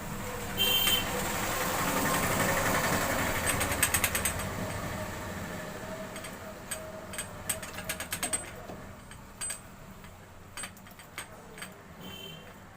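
Metal clicks and clinks of a tool tightening the Allen bolt at the foot of a motorcycle front fork, scattered through the second half, over a broad mechanical noise that swells in the first few seconds and then fades.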